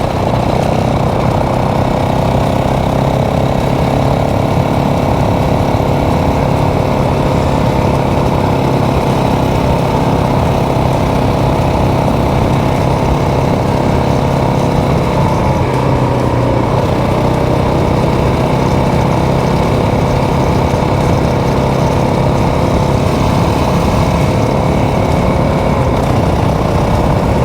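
Motorcycle engine running steadily while riding, its pitch shifting slightly now and then.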